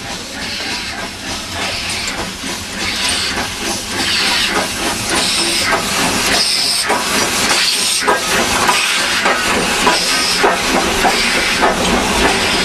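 Steam locomotive running, its exhaust and steam hiss coming in a series of regular chuffs, roughly one a second, growing louder about four seconds in.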